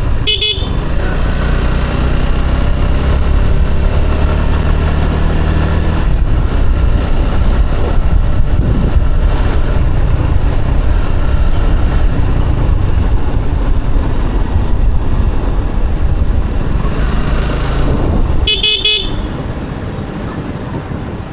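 Motorcycle engine running steadily, then the rush of riding along the road from about six seconds in. Short bursts of horn honking come right at the start and again near the end.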